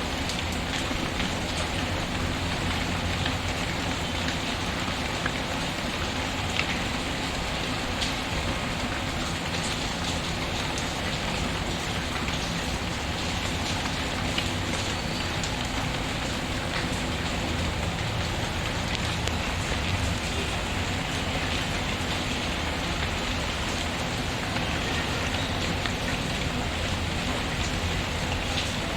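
Steady rain falling. Occasional faint crackles from a wood fire are scattered through it.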